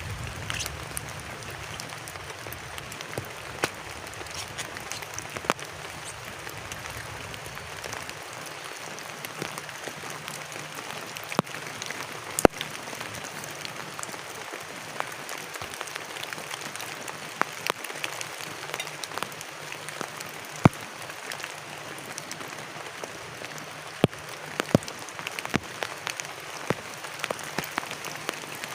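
Steady rain falling on a plastic tarp shelter: an even hiss with many scattered sharp ticks of single heavy drops striking the plastic.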